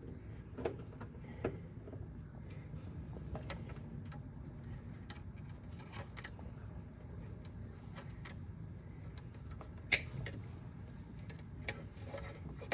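Scattered light clicks and clinks of hand tools and metal parts being worked on a golf cart's accelerator cable linkage, with one sharper click about ten seconds in, over a low steady background hum.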